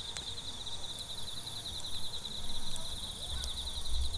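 Crickets chirring steadily in a continuous high, fast-pulsing trill, with a few faint crackles from the campfire.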